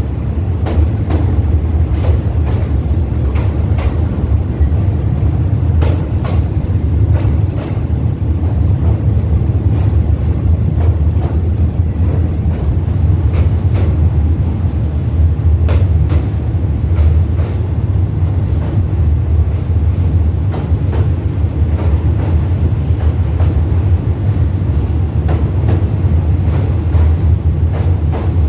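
Passenger express train rolling across a steel truss railway bridge, heard from the carriage: a steady heavy rumble with frequent sharp clicks and clanks of the wheels on the track.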